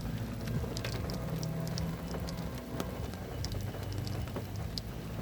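Heavy rain falling, with scattered drops ticking, over a low steady hum.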